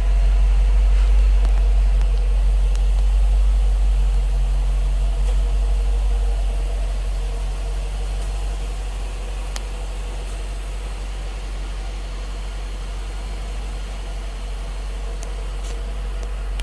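2008 Dodge Charger's 6.1-litre HEMI V8 idling steadily, with a deep low rumble that eases slightly quieter partway through.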